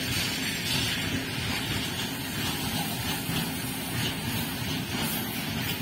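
Loaded BOXN HL open-top freight wagons rolling past close by, a steady rumble and rattle of steel wheels on the rails.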